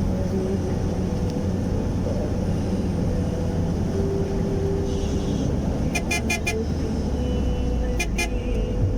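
A motor vehicle running steadily with a low rumble, and short horn toots: four quick ones about six seconds in and two more near the end.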